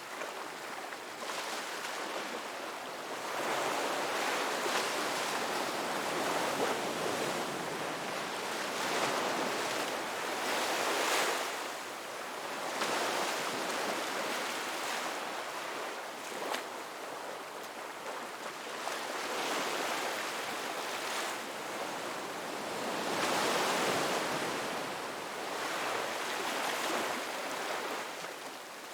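Ocean waves breaking on a beach: a steady wash of surf that swells and ebbs every few seconds.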